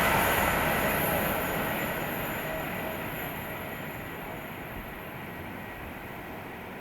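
A train running past and moving away, its rumble and rail noise fading steadily.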